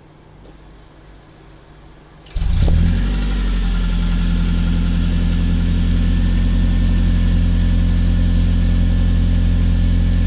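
2011 Toyota Camry Hybrid's 2.4 L four-cylinder gas engine, heard at the tailpipe, starting abruptly about two seconds in with a brief surge. It then settles into a steady idle.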